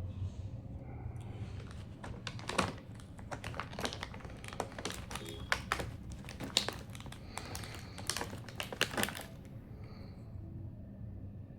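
A quick, irregular run of sharp clicks and light taps, hard plastic being handled during toy unboxing, starting about two seconds in and stopping about nine seconds in, over a steady low hum.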